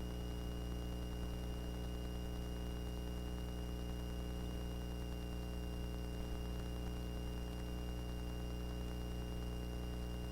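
Steady drone of a Cessna 402B's cockpit in flight, heard as a low hum with several fixed tones and an even hiss, unchanging throughout.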